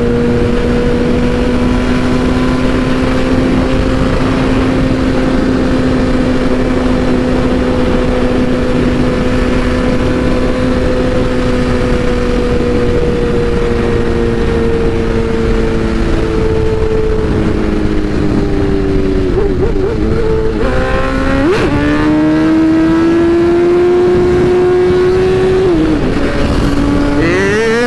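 BMW S1000RR inline-four engine holding steady revs under a rush of wind noise, then easing off about two thirds of the way in. A sudden rev blip follows, the pitch climbs, drops again, and rises once more near the end.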